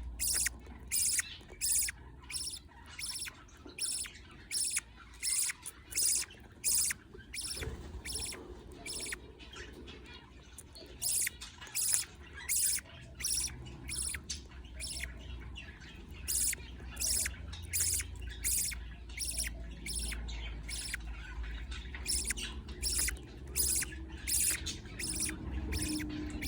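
Budgerigar chicks giving begging calls while being fed: short, high squawking chirps repeated about twice a second, with a few brief pauses.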